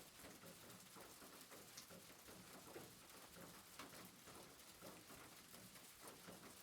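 Faint soft rain: a steady hiss with scattered small drips pattering irregularly.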